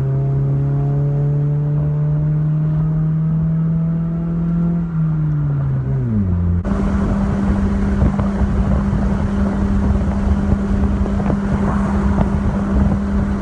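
Car engine under way, its note climbing slowly for about five seconds and then dropping off sharply. After an abrupt cut, a steady engine drone runs over rough, uneven noise.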